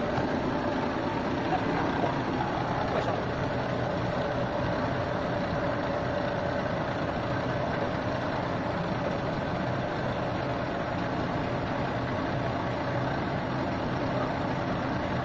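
An engine running steadily at idle, with an even drone and a faint steady tone.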